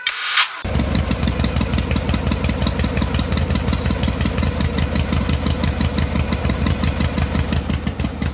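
An engine running at a steady idle with an even, rapid pulsing, starting abruptly about half a second in.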